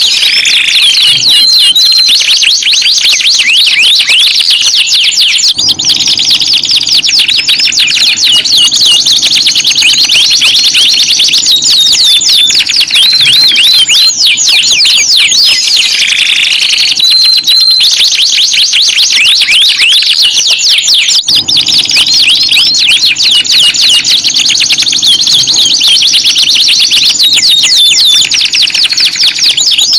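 Domestic canaries singing continuously: long, fast rolling trills and rapid high-pitched chirping phrases.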